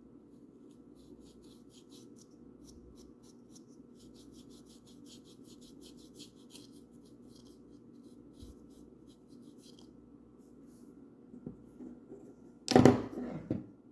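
Paintbrush strokes on a wooden bird house: a series of short, faint, scratchy brushing strokes over a low steady hum. Near the end comes a loud knock and clatter.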